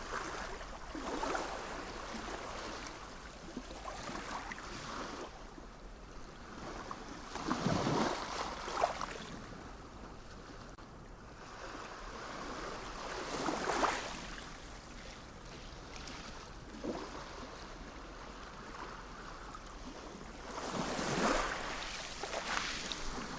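Sea waves washing in, the surf swelling and fading in repeated surges every few seconds, the strongest about a third of the way in and just past halfway.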